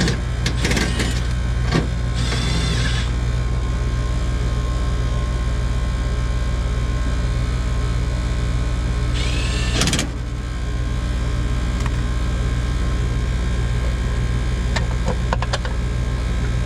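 Steady, loud hum of a running motor-driven machine, with a few short, high scraping squeaks near the start and again about ten seconds in.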